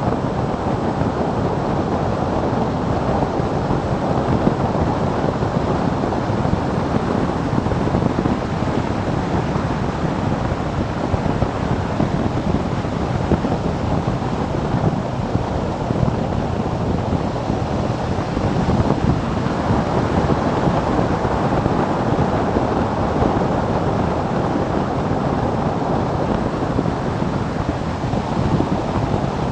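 Steady wind rush buffeting the microphone of a motorcycle on the move.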